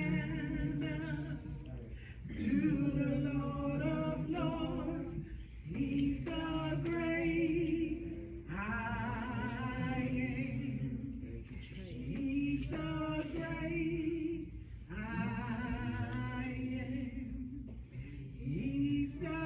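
Church congregation singing a worship chorus together, several voices in sustained phrases a few seconds long with short breaks between them.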